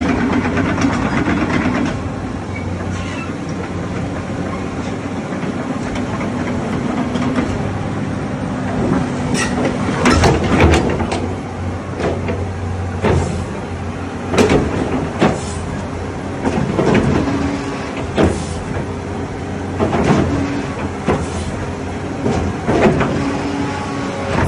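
Caterpillar 320 hydraulic excavator's diesel engine running steadily. From about ten seconds in, sharp clanks and knocks come every second or two.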